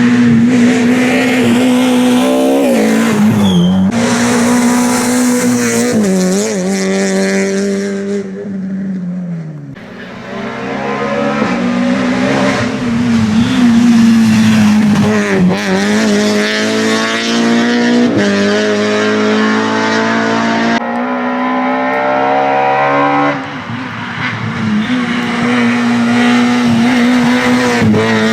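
Peugeot 306 rally car's engine driven hard at high revs, holding a steady high note between brief dips at gear changes. Near the middle the note drops away as the driver lifts off, then it climbs back up under full throttle.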